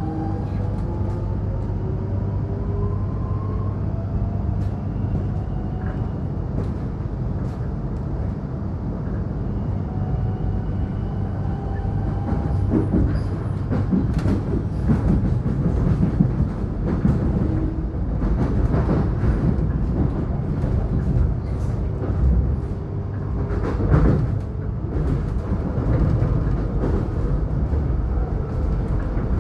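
Electric suburban train running on the rails: a motor whine rising in pitch over the first few seconds as it picks up speed, then a steady rumble of wheels on track with frequent clicks and clatter.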